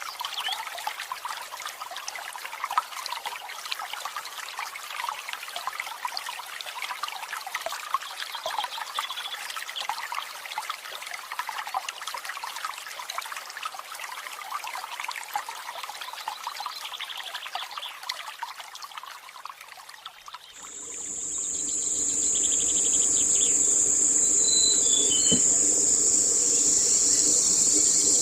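Water trickling and splashing steadily; about two-thirds of the way through it cuts to a loud, steady, high-pitched insect drone, with a few short bird chirps over it.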